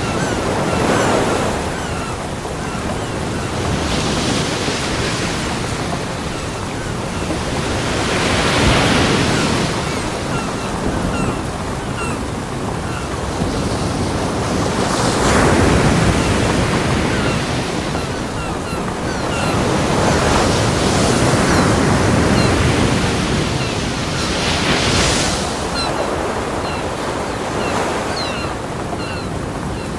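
Ocean waves breaking on a beach: a continuous wash of surf that swells with each breaker every four to six seconds.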